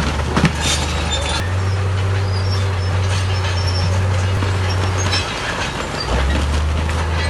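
Heavy diesel earthmoving machinery running steadily, its low engine note shifting up about a second and a half in and dropping back near the end. Metallic clanks and faint squeaks sound over the engine.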